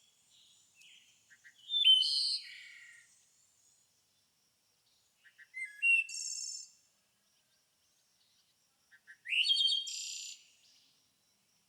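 A songbird singing three short phrases a few seconds apart, each a quick few notes leading into a rising note and a rapid, high trill.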